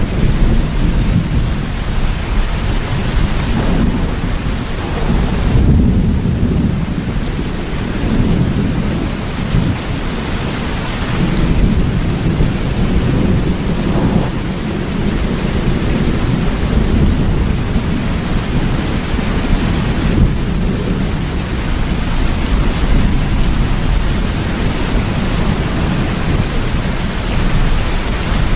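Heavy rain falling steadily, over a continuous deep rumble that sits beneath the patter with no separate cracks.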